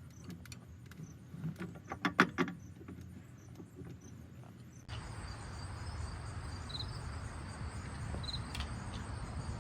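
Scattered light clicks and taps, the loudest a quick cluster about two seconds in. About five seconds in, an abrupt change to a steady outdoor background with short, high cricket chirps every second or so.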